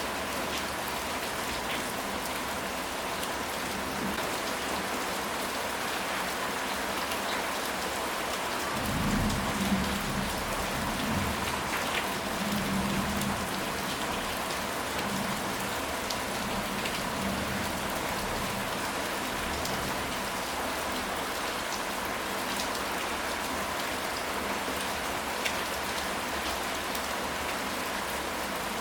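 Steady rain falling, with a low rumble of thunder about nine seconds in that lasts some four seconds.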